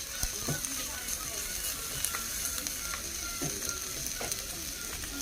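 Conger eel sizzling on the hot top of a wood-fired stove, a steady hiss with many small crackling pops.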